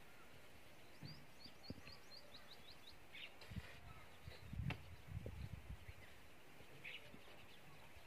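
Quiet outdoor ambience with a small bird giving a quick run of about ten high chirps, one to three seconds in, and a few short calls after. Soft low thumps come and go, with one sharper knock about halfway through.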